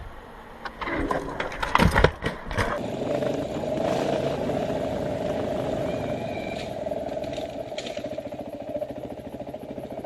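Several sharp knocks and clatter about one to three seconds in, then a motorcycle engine running at a steady pitch, its note turning more pulsing near the end.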